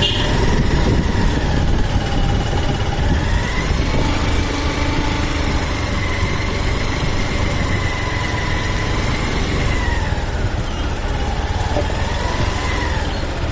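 Motorcycle engine running while riding, its whine rising, holding, then dropping as the bike speeds up and slows, over a steady low rumble of wind and road noise on the microphone.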